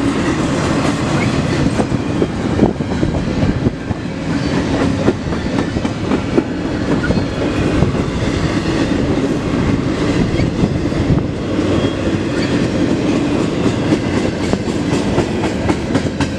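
Intermodal freight train cars rolling past close by: a steady rumble of steel wheels on rail, with irregular clicks and clacks as the wheels cross the rail joints.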